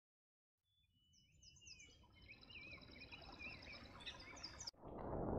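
Faint high bird chirps and trills over a low noisy rumble that fades in, cut off abruptly near the end.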